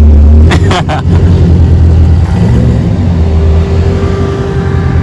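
A car's engine revving hard and running loud and close, with a quick run of sharp cracks about half a second in.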